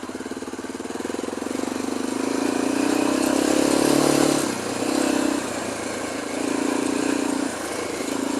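Single-cylinder, air-cooled dirt bike engine under way, its throttle opened and eased off several times. It is loudest about four seconds in, followed by shorter surges.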